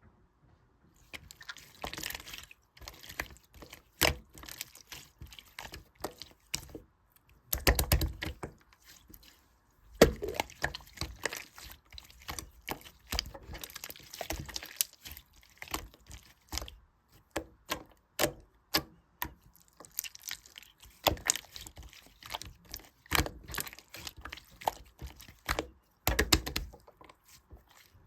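Slime being squished, pressed and stretched by hand, making an irregular stream of wet clicks, crackles and pops.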